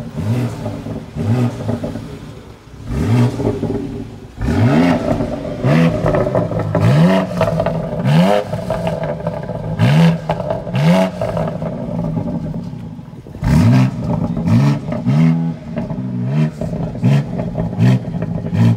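BMW X3 M Competition's twin-turbo straight-six, parked, revved in a series of quick throttle blips, each a fast rise and fall in revs, with sharp cracks between the blips as the revs drop.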